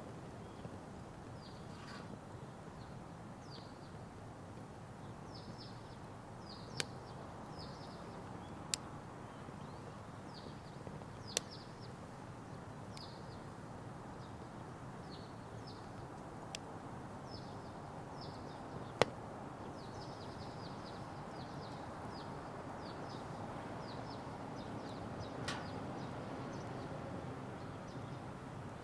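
Firewood burning in a Petromax Atago fire pit, with about six sharp pops from the wood over a steady low hiss. Small birds chirp over it.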